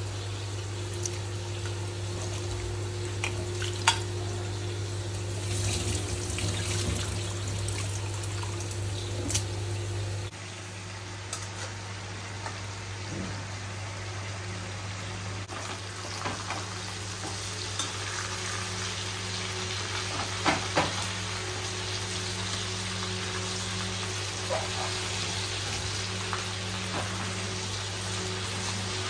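Marinated chicken pieces frying in hot oil, sizzling steadily, with a few sharp clicks from the utensils.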